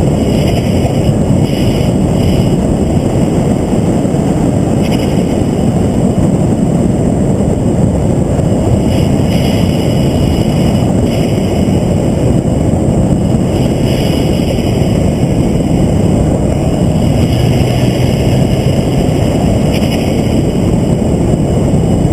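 Vehicle running at speed on a race track: steady engine and rushing wind noise with no sharp events.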